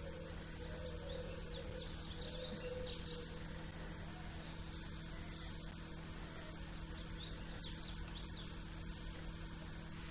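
Small songbirds chirping in a few short bursts of quick high notes, over a steady low hum.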